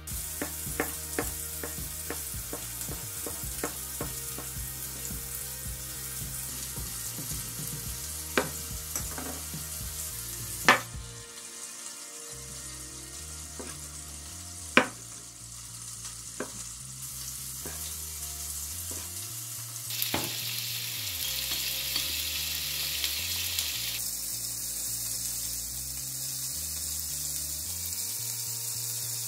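Burger patties frying in a cast-iron grill pan: a steady sizzling hiss. A few sharp knocks of a knife on a cutting board cut through it.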